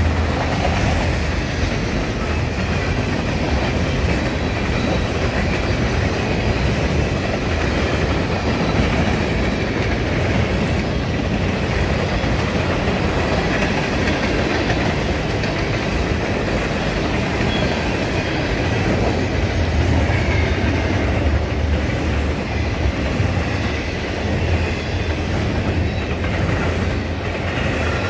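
A CP freight train's cars rolling past on the main line: a steady rolling noise of steel wheels on the rails, strongest in the low rumble, with no pause or break.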